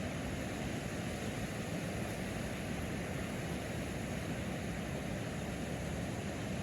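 Steady, even rushing noise, heaviest in the low range, with no tones, rhythm or separate events.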